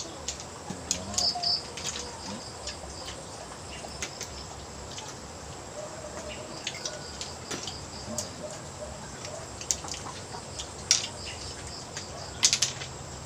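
Small birds chirping in short runs of quick high notes, among scattered sharp clicks and knocks.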